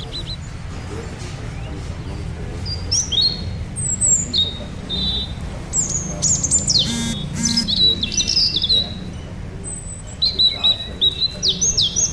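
Birds chirping and whistling: short, quick calls that slide up and down, in runs around the middle and again near the end, over a low steady rumble.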